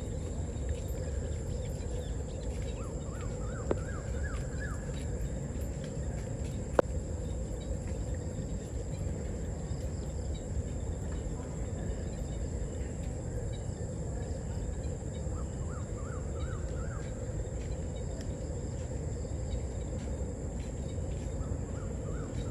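Steady outdoor background noise with a bird calling twice, each time a quick run of rising chirps, and two sharp clicks early on.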